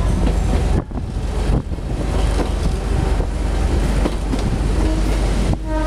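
Moving train running along the track, with a steady loud rumble of wheels on rails and wind rushing past the open window. Near the end a brief pitched tone sounds over it.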